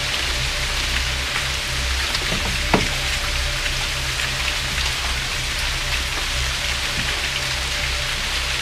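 Steady rain falling, with scattered individual drops striking close by, one sharper than the rest about three seconds in, over a low rumble.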